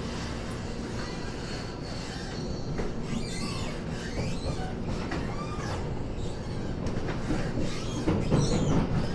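Wheels running on the rails, heard inside an EMU800-series electric commuter train as it pulls out of a station. From about three seconds in, wheel squeal comes in as high, wavering tones over the running noise. The sound grows louder near the end.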